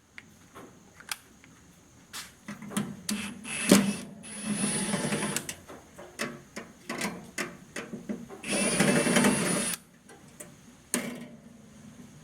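Handheld power driver running in two bursts of about a second and a half each, backing screws out of a microwave oven's metal housing, with clicks and knocks of tool and parts being handled between bursts.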